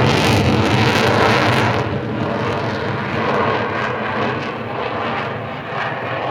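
F-16 fighter jet's engine roaring in a flypast, loudest for the first two seconds and then easing off a little as the jet moves away.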